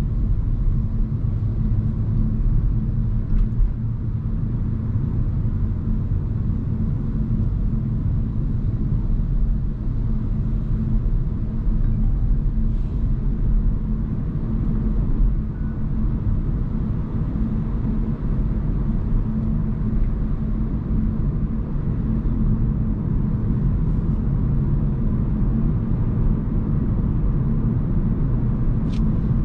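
Hyundai Kona Hybrid driving along, a steady low road and tyre rumble with a faint constant hum and a few faint clicks.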